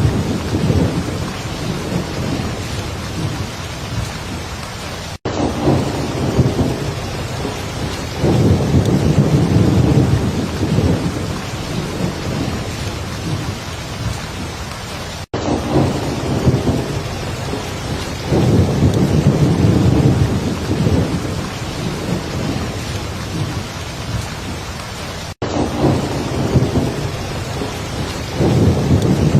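Heavy rain falling steadily, with low rolling thunder that swells up and dies away several times. Three very short drop-outs, about ten seconds apart, break the sound.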